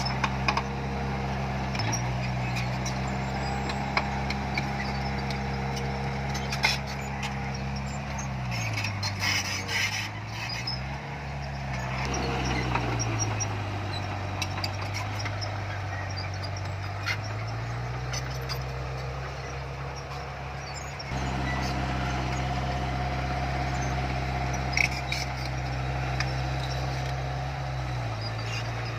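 Heavy earthmoving machine's diesel engine running under load, its pitch falling and rising several times as the throttle changes, with a few short metallic clanks.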